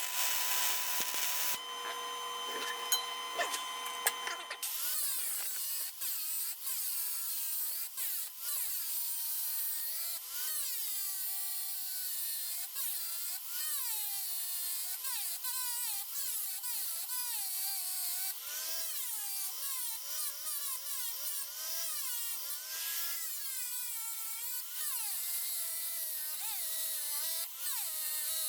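MIG welding with an old Lincoln 110-volt gas-shielded wire welder: a continuous crackling, sizzling arc whose pitch wavers up and down as the bead is run.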